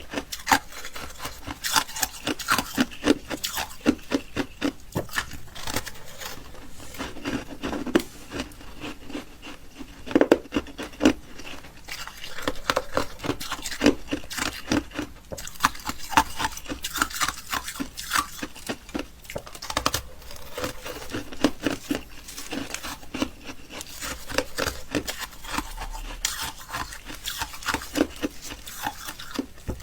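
Close-miked crunching and chewing of ice: a dense run of sharp, irregular crackles and crunches, bite after bite.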